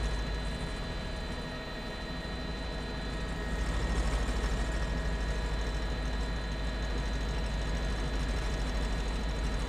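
Steady helicopter engine and rotor noise heard from inside the cabin: a fast low rotor beat under a steady turbine whine.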